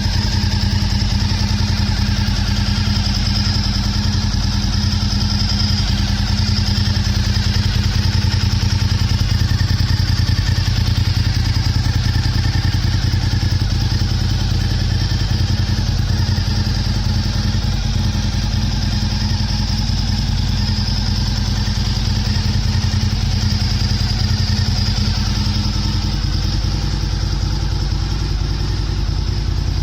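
Honda RVT1000R V-twin idling steadily through a LeoVince aftermarket muffler, with no revving.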